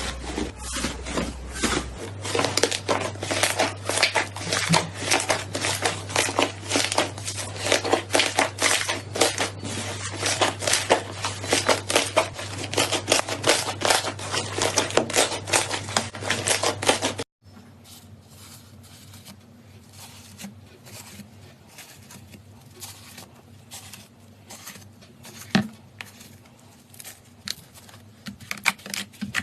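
Slime being squeezed and worked by hand, giving a dense run of small crackles, clicks and pops. About two-thirds of the way through the sound cuts off suddenly and gives way to a quieter stretch with sparser clicks.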